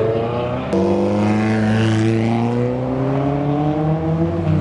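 Sports car engines running close by as cars pass in procession. After an abrupt break less than a second in, a deep engine note climbs slowly and steadily in pitch as a car accelerates.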